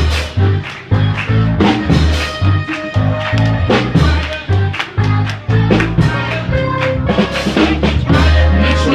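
Live praise-band music with a drum kit beating a fast rhythm over a moving bass line. It settles into a held low chord near the end.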